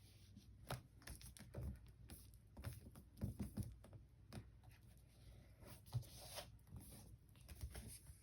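Faint, scattered rustles and small taps of hands pressing and smoothing a thick glued paper cover down onto a binder to make it stick.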